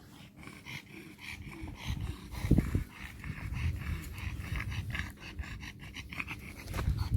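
A dog panting in quick, even breaths, with a low thump about two and a half seconds in.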